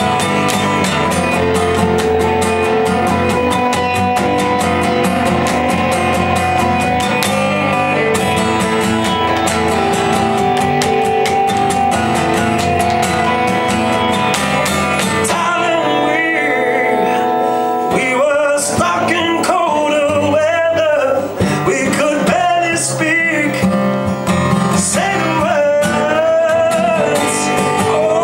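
Live music: a strummed guitar plays an instrumental passage, and about halfway through a voice comes in singing over the guitar.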